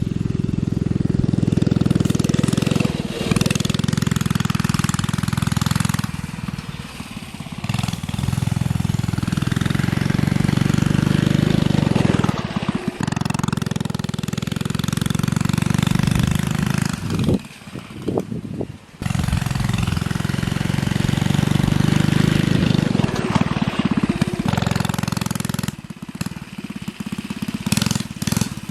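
Coleman CT100U minibike's 100cc single-cylinder engine, its governor bypassed, running hard at high throttle with a rapid exhaust pulse. The throttle is eased off a few times, most deeply for a moment about 17 to 19 seconds in, before it opens up again.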